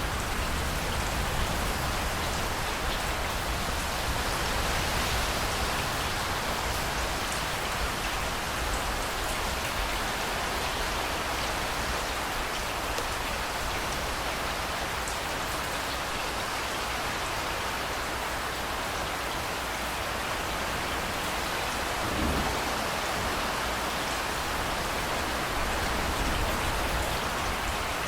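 Steady rain falling on hard surfaces, a continuous even hiss. A brief low thump comes about three-quarters of the way through.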